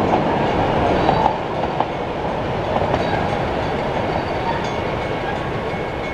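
Puffing Billy's narrow-gauge wooden carriages rolling away over the level crossing: steady rumble and clatter of wheels on rail. It drops a little about a second in, then slowly fades.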